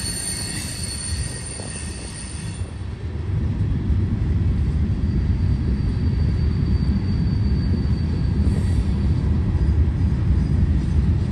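Freight train hopper cars rolling past, their steel wheels on the rails making a steady low rumble. High squeal from the wheels rings for the first couple of seconds and fades out, and the rumble grows louder after about three seconds.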